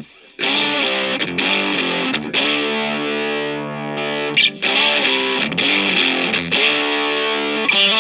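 Electric guitar played through a Fender Santa Ana Overdrive pedal, strumming overdriven chords that ring out and change every second or so after a brief pause at the start, with a short high squeal from the strings about four and a half seconds in.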